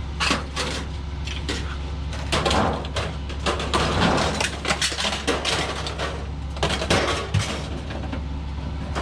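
Scrap metal clanking and clattering as pieces are handled and dropped, with many irregular knocks, busiest a couple of seconds in, over a steady low hum.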